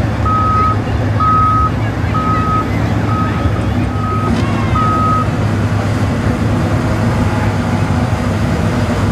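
A vehicle's backup alarm beeps about once a second, a single steady tone, and stops about five seconds in. Under it runs a steady low engine rumble.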